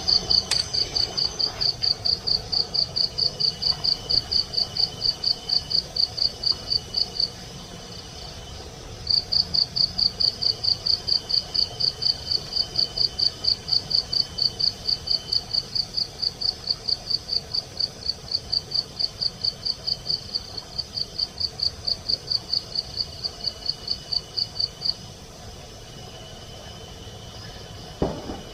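Cricket chirping in fast, even, high-pitched pulses, about five a second, pausing twice for a couple of seconds before starting again. A fainter, steady high insect tone comes and goes behind it.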